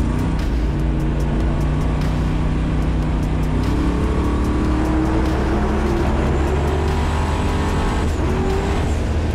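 Twin-turbo Cutlass engine running as the car drives, its note climbing in pitch and then dropping about eight seconds in.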